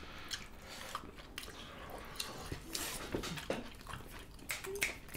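Close-miked chewing and wet mouth smacks of people eating mutton curry and rice with their hands, with irregular small clicks scattered through.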